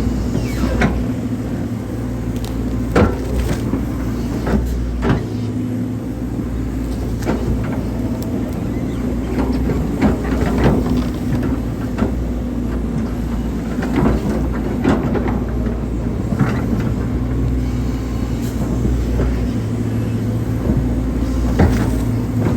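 Hydraulic excavator working: the diesel engine runs steadily under load, with irregular knocks and clanks every second or two as it digs a drainage ditch.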